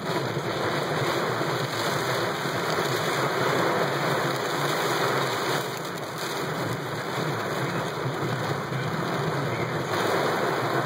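Heavy thunderstorm rain falling steadily on a car's windshield and roof, heard from inside the car.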